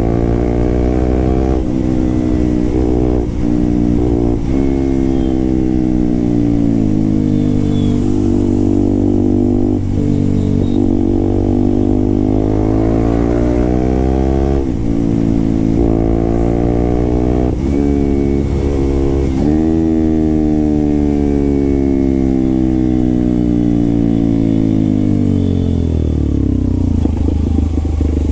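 Motorcycle with an SC-Project aftermarket exhaust under way, engine pitch climbing and then dropping sharply at each upshift, several times. Near the end the pitch falls away steadily as the bike slows.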